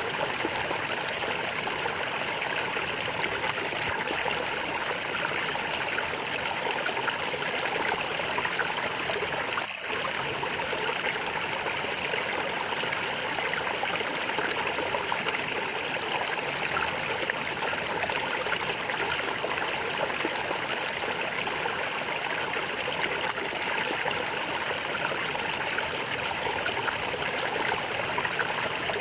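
Stream water flowing and gurgling steadily, with a momentary dip in level about ten seconds in.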